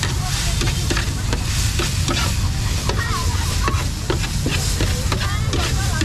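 Food sizzling in a hot pan while a metal utensil stirs and scrapes it, with frequent clinks and taps.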